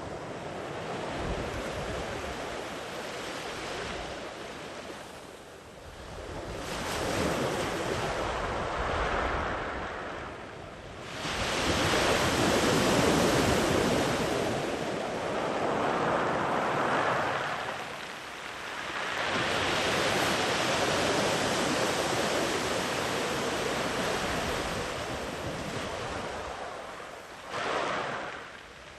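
Sea waves breaking and washing far up the beach in slow, repeated surges of rushing surf, one swelling in every several seconds. The biggest wave breaks suddenly about eleven seconds in.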